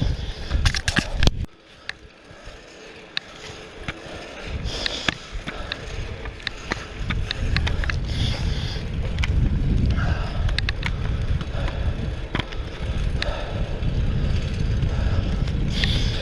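Fixed-gear bicycle riding on pavement: tyre and road rumble with wind on the microphone, and scattered sharp clicks and rattles from the bike over bumps. The rumble drops away suddenly about a second and a half in, then builds back up over the next few seconds as speed picks up.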